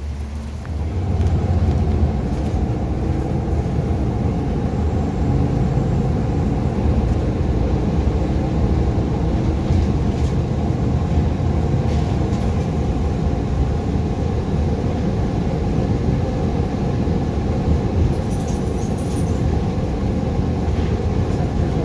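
City bus running, a steady low rumble that grows louder about a second in and then holds.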